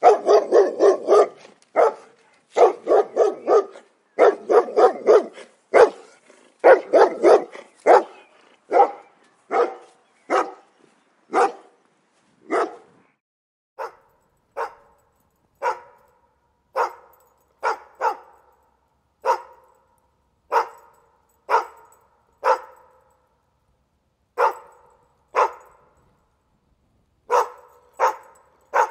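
Dog barking: a fast, dense run of deeper barks for about the first eight seconds, then single, higher barks roughly once a second with short pauses between them, each with a brief echoing tail.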